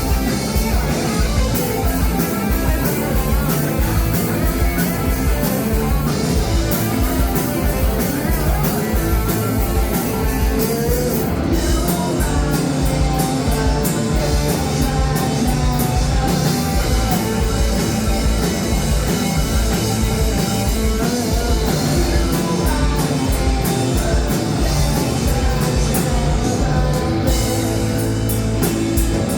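Indie punk-rock band playing live: electric guitars, bass and drum kit at full volume over a steady driving beat, with singing.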